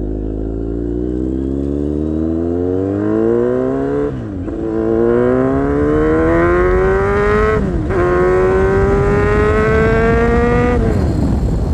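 Kawasaki Z800's inline four-cylinder engine through an SC Project aftermarket exhaust, accelerating hard through the gears. The revs climb, drop sharply at an upshift about four seconds in, climb again to a second upshift near eight seconds, then rise more slowly and fall away as the throttle closes near the end.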